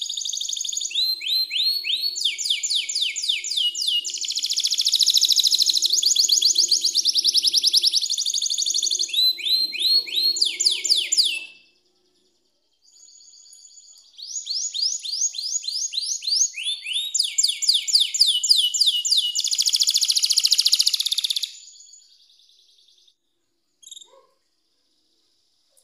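Canary singing long rolling trills of fast repeated notes, in two bouts with a short break about halfway through. A single brief click near the end.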